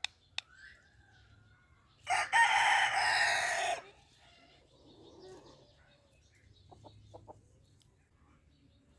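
Ringneck parrot giving one loud, harsh call lasting nearly two seconds, starting about two seconds in, with faint softer chirps and a few small clicks before and after it.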